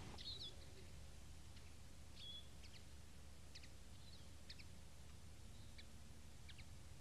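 Faint, scattered chirps of small birds, short high calls a few times a second, over a low steady hum.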